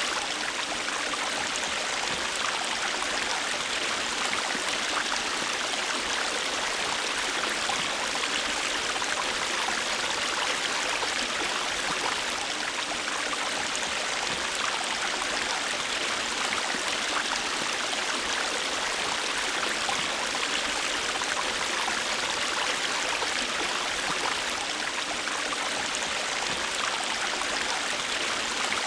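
A river or stream flowing steadily over rocks: a continuous rushing of water with fine splashing and babbling, unchanging throughout.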